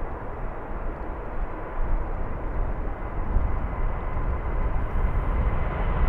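Boeing 787-9 Dreamliner's jet engines heard from the ground: a steady rushing rumble with a faint high whine, growing louder near the end as the airliner comes closer.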